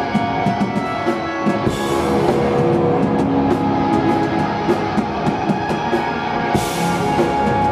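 Live experimental metal band playing: guitars holding sustained chords over a drum kit, with two crashes, about two seconds in and near the end.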